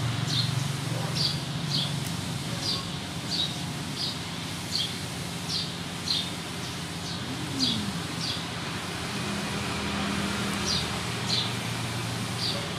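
A small bird chirping over and over, short high notes about twice a second with a brief pause a little past the middle, over a steady low hum.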